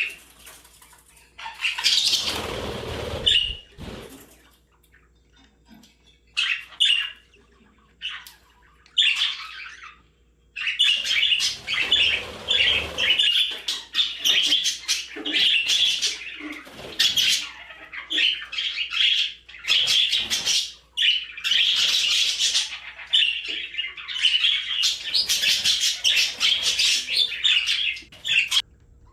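Pet budgerigars chirping and chattering: scattered short chirps at first, then a long run of rapid, busy warbling from about ten seconds in. A loud rustling burst comes near the start.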